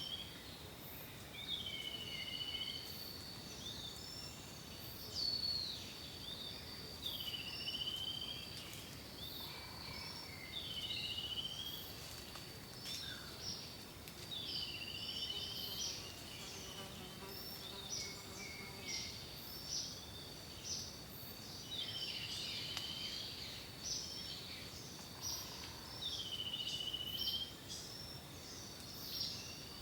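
Wild birds singing: one bird repeats a swooping whistled call about every three seconds, with short chirps from others in between. A steady, thin, high-pitched drone runs underneath throughout.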